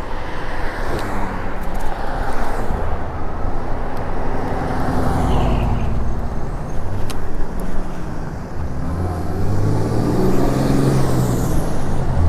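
Road traffic and riding noise, with a motor vehicle's engine humming close by over the last few seconds.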